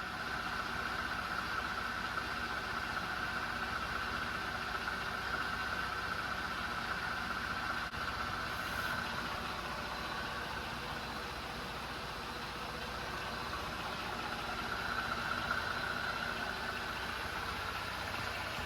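2020 Jeep Gladiator's engine idling steadily, with a steady hiss over it.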